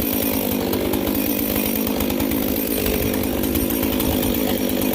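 Two-stroke chainsaw engine running steadily at an even speed, without revving up.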